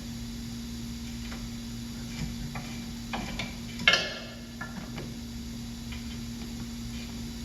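Metal tools and parts clinking and knocking now and then, with one loud, ringing metallic clank about four seconds in. A steady low hum runs underneath.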